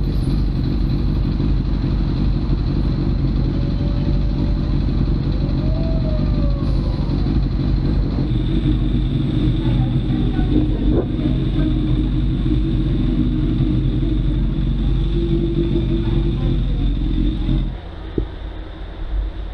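Motorcycle riding through traffic: steady engine and wind noise picked up by a bike-mounted action camera. The sound drops much lower near the end.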